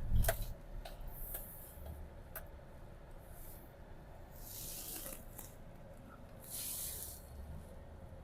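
Low steady rumble of a car being driven, heard inside the cabin, with a thump at the start and two short hisses about halfway through and again a couple of seconds later.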